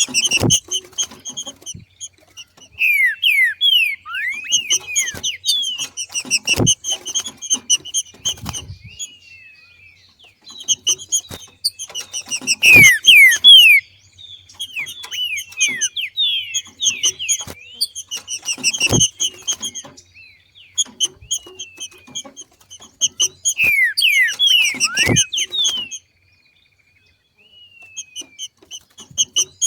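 Female green-winged saltator (trinca-ferro) giving its 'macheado' call, the call of a bird coming into breeding condition. It comes in bouts of rapid, short, high chips mixed with quick downward-sliding whistled notes. A sharp thump cuts in about every six seconds, and the sound drops out for about a second and a half near the end.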